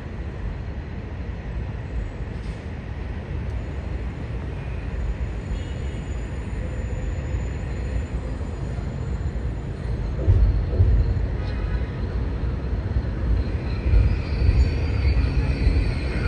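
Metro-North commuter train on the rails, a steady low rumble that grows louder about ten seconds in, with heavier thumps, and high squealing from the wheels near the end.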